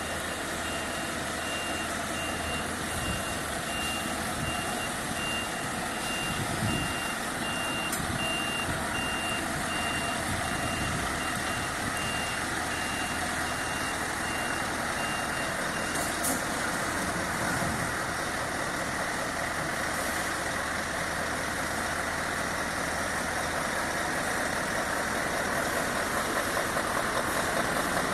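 Scania S650 truck's V8 engine running at low speed during a manoeuvre, with a high-pitched reversing alarm beeping repeatedly through roughly the first half and then stopping.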